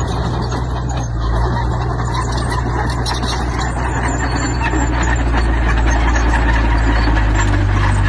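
Heavy diesel engine of earthmoving machinery running steadily, with dense clattering over the engine drone as the machine works stone.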